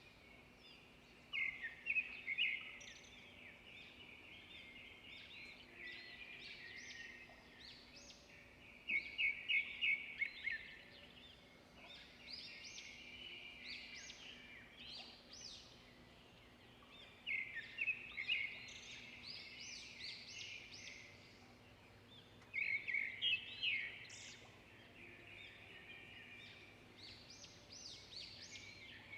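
Birdsong: one bird repeats a short, rapid trilled phrase about every six to eight seconds, five times, while other birds twitter faintly and steadily behind it.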